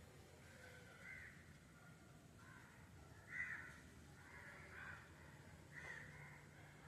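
Faint bird calls: short, harsh-sounding calls repeated about five times, the loudest a little past the middle, over a faint low hum.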